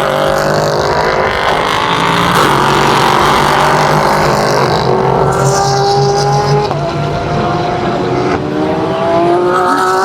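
Racing cars' engines running hard on track, their pitch climbing steadily through the gears, with an upshift drop about two-thirds of the way through.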